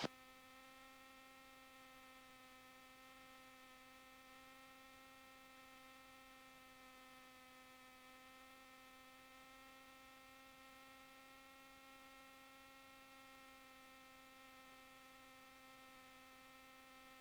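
Near silence with a faint, steady electrical hum: one low tone with a ladder of even overtones that holds unchanged throughout.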